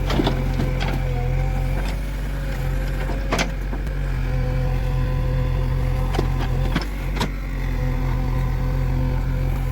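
A motor running steadily with a constant hum, with sharp clanks or knocks now and then, about eight in all.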